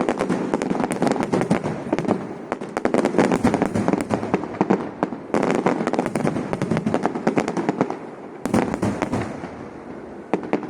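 Aerial fireworks going off in a dense, rapid crackle of bangs that comes in waves, with brief lulls about five and eight seconds in and a thinner spell near the end.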